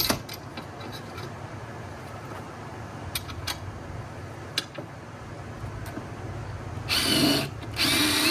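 A few light clicks and taps, then a drill driving a #10 structural screw into the wall in two bursts near the end, the second longer.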